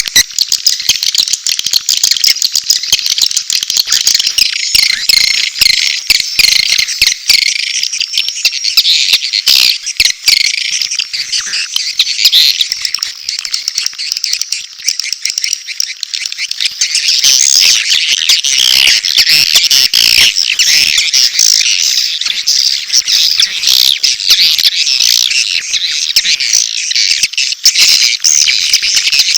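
Recorded swiftlet calls used as a swiftlet-house lure: a dense, continuous high twittering and chirping of many birds, mixing mating calls with chick calls. The chorus grows thicker and louder a little past halfway.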